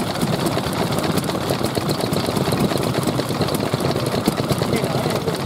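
Vintage Japanese stationary petroleum engines (hatsudoki) running with a steady, fast clatter.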